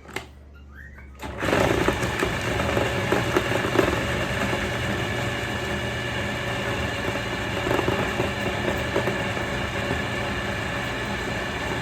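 An electric grinder switches on about a second in and runs steadily under load, grinding raw beef suet with a constant motor hum and whir.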